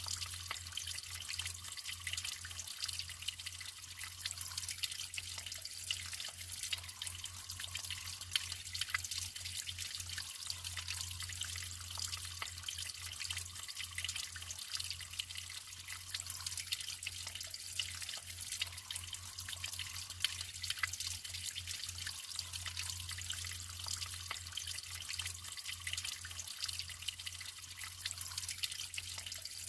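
Natural running water trickling and splashing, a steady stream of small drips and splashes with no break.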